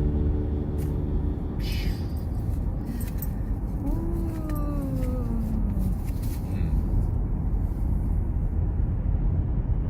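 Car driving, a steady low road rumble inside the cabin with scattered light clicks. A short falling pitched sound comes about four seconds in and lasts about two seconds.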